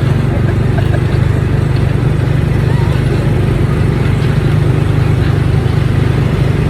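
Small gasoline engine of a Tomorrowland Speedway ride car running steadily, a loud, even low drone.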